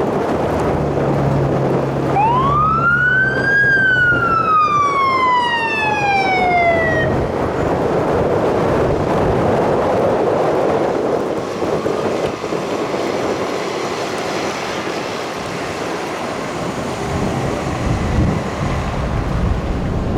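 Fire rescue truck siren giving one wail that rises for about a second and a half, then falls away over about three seconds and stops. After it come only the steady rumble of the truck and road noise.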